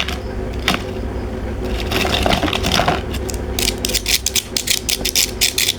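Close-up crunching and chewing of a crispy, kerupuk-like cracker snack, the crisp pieces cracking between the teeth. The crunches come scattered at first, then in a quick run of many sharp cracks in the second half.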